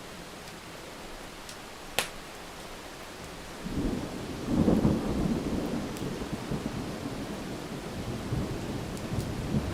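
Steady rain with a single sharp click about two seconds in, then a roll of thunder that builds from about four seconds in, peaks a second later and keeps rumbling.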